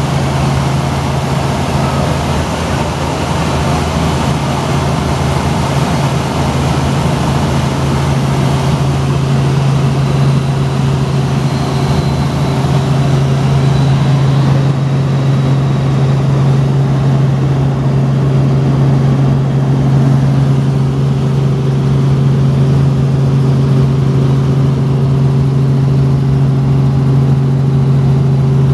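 Tour helicopter running, heard from inside the cabin: a loud, steady engine and rotor drone with a constant low hum. The higher rushing noise softens from about halfway through.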